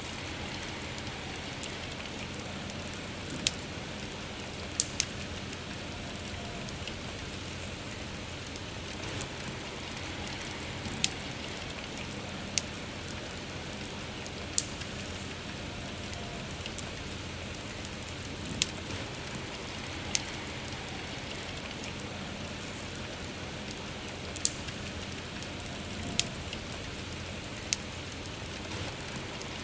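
Steady rain hiss with a wood fire crackling through it: sharp single pops scattered irregularly, about one every one to two seconds.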